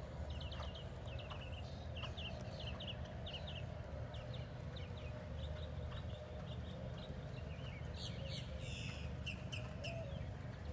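Birds chirping in a long run of short, high calls, with a busier flurry near the end, over a steady low rumble.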